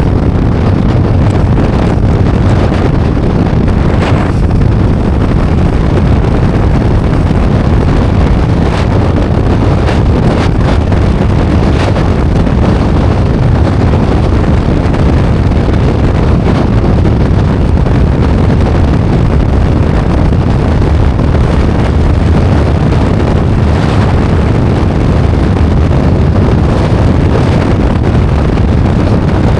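Wind rumbling steadily on the camera microphone of a Royal Enfield Himalayan 450 on the move, with the motorcycle running underneath and a few brief sharp ticks scattered through.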